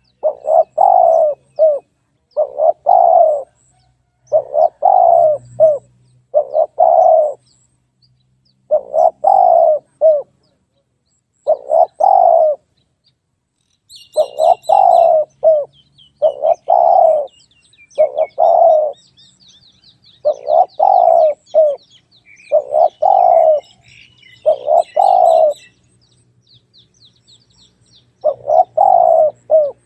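Spotted dove cooing: short phrases of a few coos repeated every couple of seconds, with a few longer breaks. From about halfway through, faint high chirping of a small bird runs underneath for several seconds.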